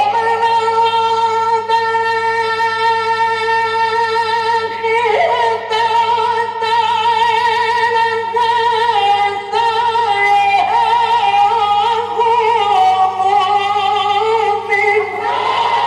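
A male Quran reciter's voice holding one long melismatic tone with vibrato, the melody stepping to new pitches several times without a break. A steady low electrical hum of an old recording lies underneath.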